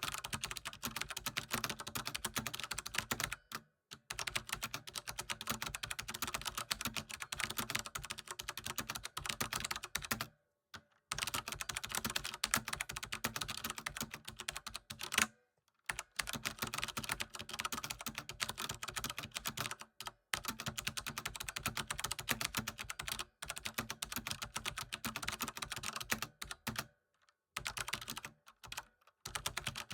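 Fast, continuous typing on a computer keyboard, a dense run of key clicks broken by brief pauses every few seconds.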